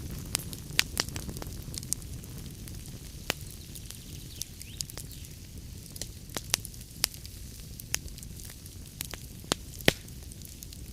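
Log fire crackling in a fireplace: a steady low rumble of burning wood, with irregular sharp pops and snaps scattered throughout. One louder pop comes near the end.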